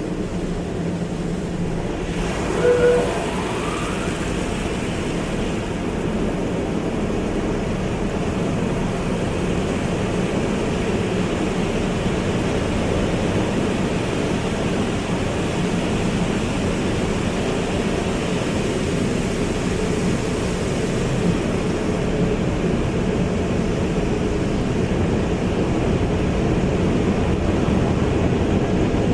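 Car wash running: a steady rush of spraying water and machinery, with a brief tone about three seconds in.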